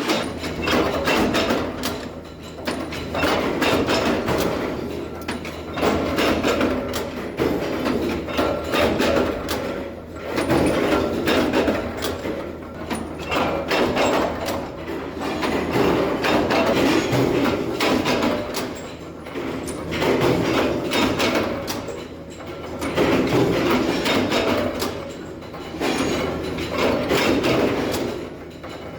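Bolt-factory machinery clattering in repeated surges every few seconds, many rapid knocks and rattles over a steady low motor hum.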